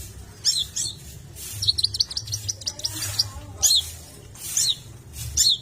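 Long-tailed shrike (cendet) singing, played as a lure: rapid chattering runs of high notes mixed with single shrill calls that sweep downward, repeating every second or so.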